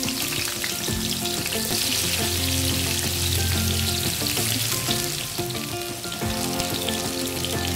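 Sliced bitter gourd (karela) sizzling steadily as it is shallow-fried in hot cooking oil in a nonstick frying pan, with more slices going into the oil.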